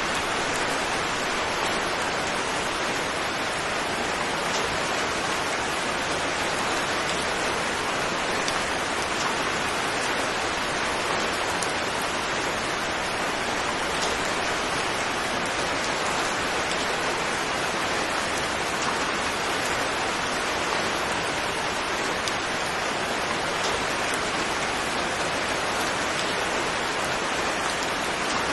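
Steady rain falling: an even, unbroken hiss of many drops, with a few separate drop ticks here and there.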